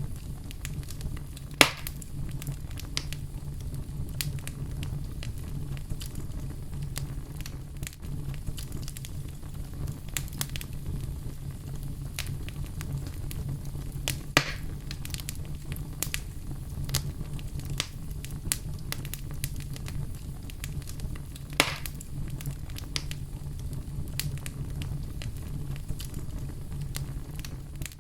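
Wood fire in a fireplace crackling over a steady low rumble, with many small crackles and three louder pops: one about a second and a half in, one about halfway, and one about three-quarters of the way through.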